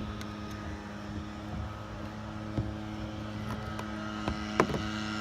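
A steady motor drone holding an even pitch, with a few sharp clicks and knocks over it, a couple near the end.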